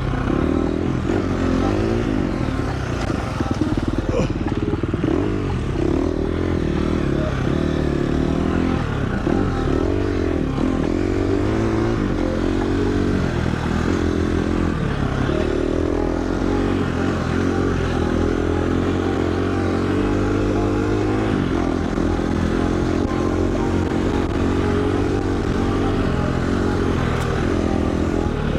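KTM dirt bike engine running under load on a trail ride, its pitch rising and falling continually as the throttle is worked on and off.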